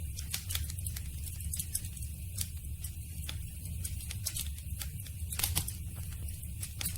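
Campfire crackling: burning wood snapping and popping in quick, irregular clicks over a steady low rumble of the flames, with a cluster of louder pops about five and a half seconds in.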